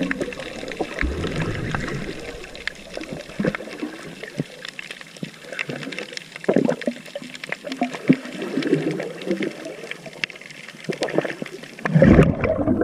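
Water splashing and trickling, with many small irregular splashes and knocks, as of hands or feet moving through shallow water; the splashing grows louder near the end.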